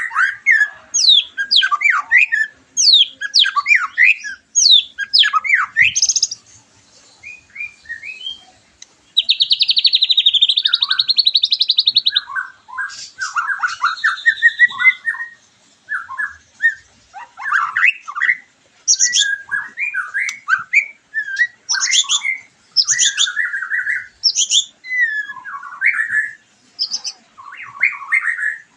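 White-rumped shama (murai batu) singing a long, varied song of fast whistled phrases and slurs, with a rapid buzzy trill lasting about three seconds about a third of the way in.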